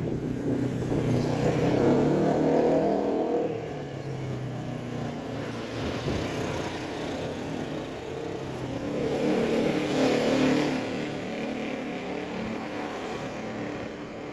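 Motor vehicles passing on a street, their engines swelling up and fading twice, loudest about two seconds in and again about ten seconds in.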